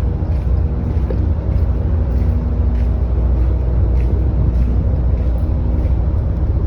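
Steady low rumble of a ferry's engines, with a faint constant hum over it.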